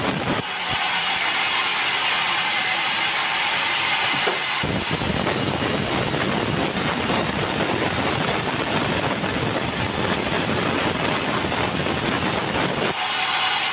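Sawmill bandsaw machinery running with a loud, steady mechanical noise. The low rumble cuts out abruptly about half a second in, comes back about four and a half seconds in, and cuts out again near the end.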